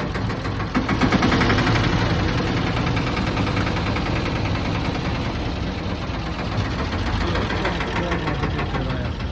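Mini tractor engine running steadily with a rapid even pulse while driving a sugarcane juice crusher, getting louder about a second in.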